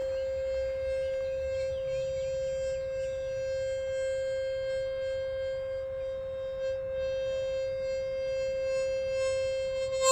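A Lovetuner 528 Hz breath whistle blown in one long, steady note.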